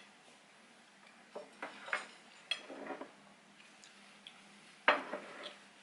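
Scattered light clicks and clinks of tableware, about half a dozen short taps clustered between one and three seconds in, the loudest about five seconds in.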